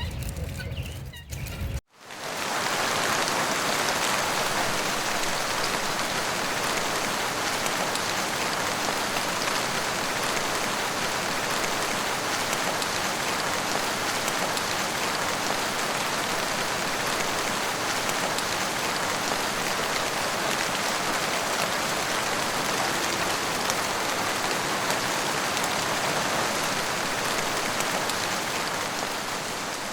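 Steady rain falling, an even hiss dotted with fine drop ticks, cutting in suddenly about two seconds in.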